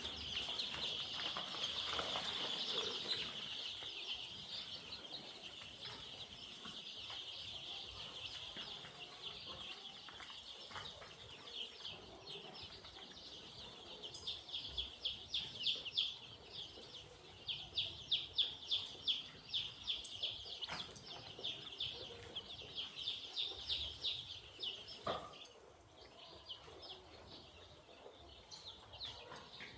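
A flock of young chickens peeping continuously, many high calls overlapping. Through the second half the peeps come louder and in quick runs, then fall away shortly before the end.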